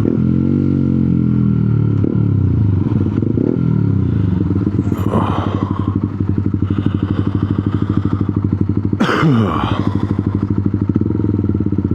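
125cc motorcycle engine running in traffic, its revs dropping early on, then rising and settling into a low pulsing run. A short loud rush of noise with falling pitch about nine seconds in.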